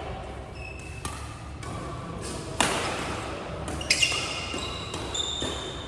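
Badminton play on an indoor court: sharp racket hits on the shuttlecock and short high squeaks of shoes on the court floor, echoing in the hall. The loudest hit comes about two and a half seconds in, with a quick pair of sharp strikes and squeaks around four seconds.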